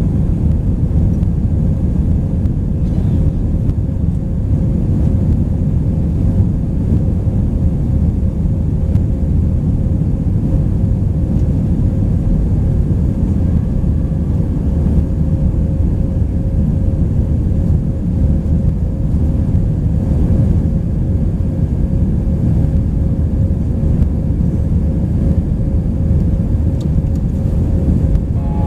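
Airbus A319 passenger cabin in flight: a steady low engine-and-airflow rumble with a faint constant hum.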